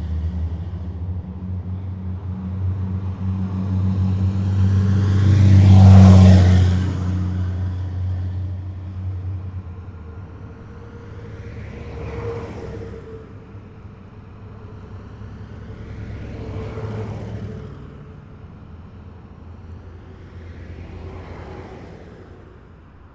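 A column of heavy military vehicles passing one after another, their engines making a deep, low drone. The loudest pass is about six seconds in, and three fainter passes follow, each quieter as the column thins out.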